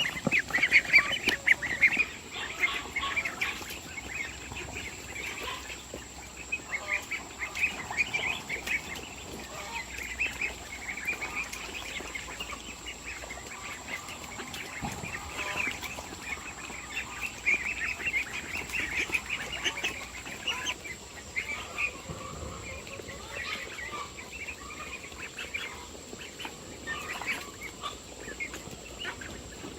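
A flock of farm poultry calling, many short calls overlapping without a break, loudest in the first couple of seconds.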